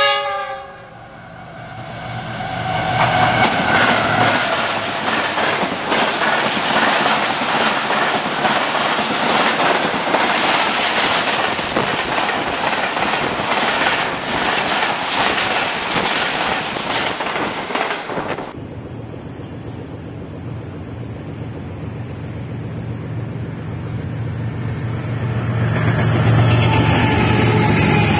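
Diesel locomotive horn sounding as an express train approaches, then the train passing at speed with a loud rush and clatter of wheels and coaches. After an abrupt change about two-thirds of the way in, a diesel locomotive's engine rumbles low, growing louder near the end.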